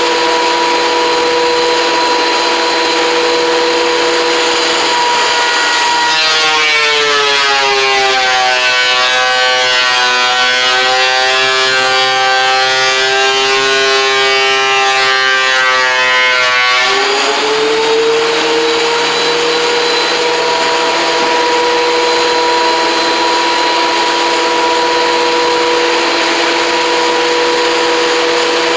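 A woodworking power tool's motor running at a steady whine. About six seconds in, its pitch drops as it takes a cut through a board, stays lower for about eleven seconds, then climbs back to full speed.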